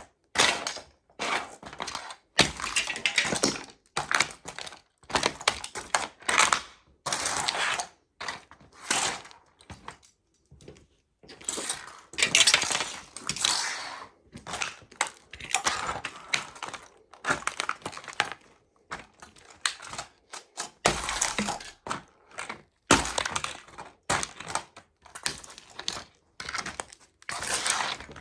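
Toy model trucks cracking and breaking as they are crushed under sneakers, in repeated irregular crunching bursts with short pauses between them and a brief lull about ten seconds in.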